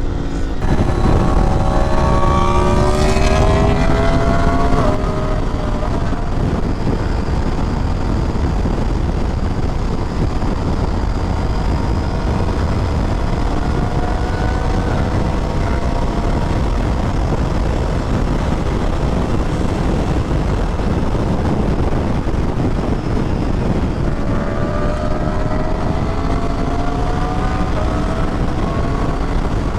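Motorcycle engine under way over a steady rush of wind, its pitch climbing as it accelerates in the first few seconds and again near the end.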